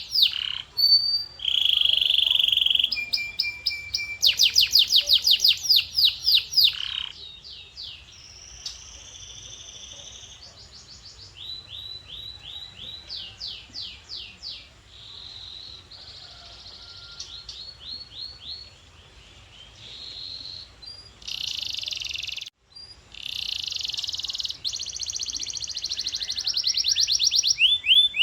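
Male domestic canary singing: a string of tours, each a rapid run of the same note repeated many times, switching from one tour to the next every second or two. The song is quieter through the middle, breaks off briefly a little past two-thirds in, and is loud again near the end.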